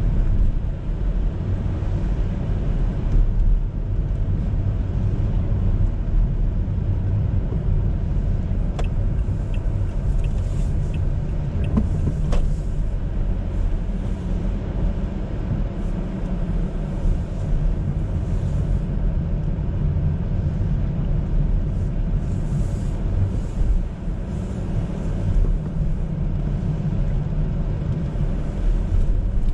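Car driving, heard from inside the cabin: a steady low rumble of engine and road noise. A short run of faint ticks and a couple of clicks come about ten seconds in.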